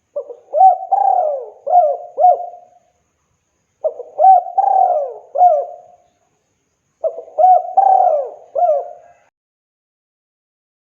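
Spotted dove cooing: three phrases about three and a half seconds apart, each a run of several notes.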